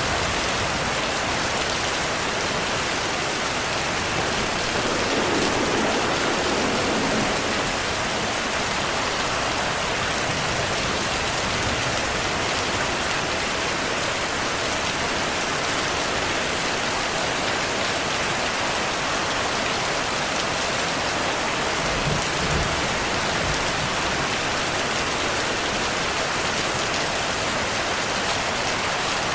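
Steady, dense rainfall. Low thunder rumbles swell briefly about five seconds in and again near twenty-two seconds.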